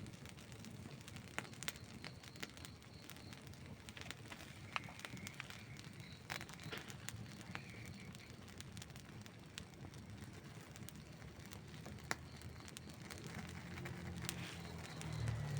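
Outdoor wood campfire crackling, with irregular sharp pops of burning wood over a low rumble. A low rumble grows louder near the end.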